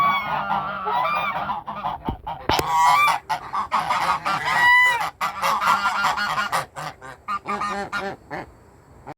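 Birds calling repeatedly: many short pitched calls in quick succession, overlapping, with scattered sharp clicks among them.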